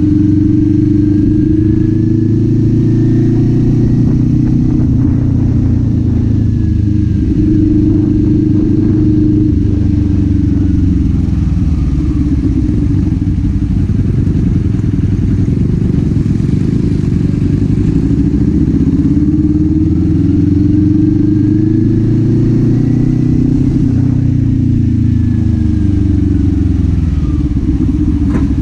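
Kawasaki Z400's parallel-twin engine and exhaust running under way, its revs climbing and falling back twice as the rider accelerates and eases off.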